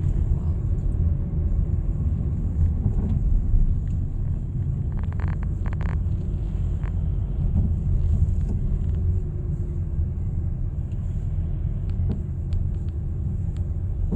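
Car cabin noise while driving: a steady low rumble of road and engine, with a few short clicks about five to six seconds in.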